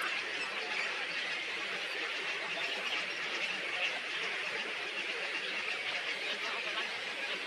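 Many small birds chirping together in a dense, steady chatter.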